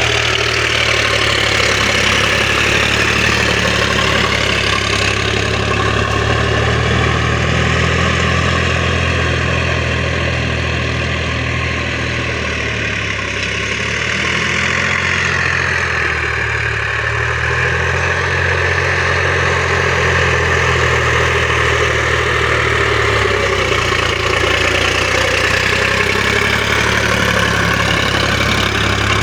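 Sonalika tractor's diesel engine running steadily, with a slight dip in loudness about halfway through.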